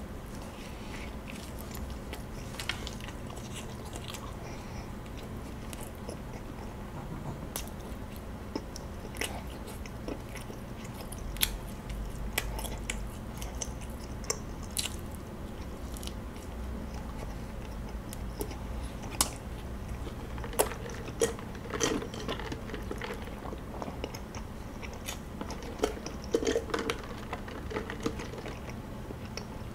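Close-miked biting and chewing of kaya toast (toasted bread with butter and kaya jam), soft crunches and wet mouth clicks scattered throughout. Near the end, sipping iced coffee through a straw.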